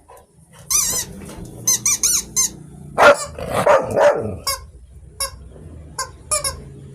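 Repeated short, high, warbling squeaks in quick bursts, with a louder dog bark about three seconds in.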